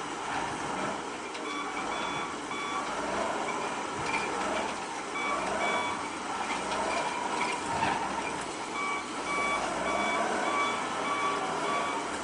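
Reversing alarm of heavy equipment beeping in repeated even pips, on and off, over the noise of diesel machinery working, with a few metal clanks.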